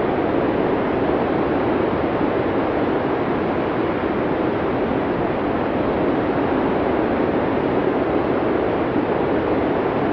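Blizzard wind ambience: a steady, even rush of noise that neither gusts nor breaks.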